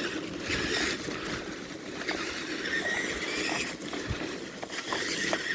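Tamiya TXT-2 radio-controlled monster truck driving through brush: a thin whine from its motor and gears comes and goes over a steady rustling, crackling noise of tyres and twigs, with a few small clicks.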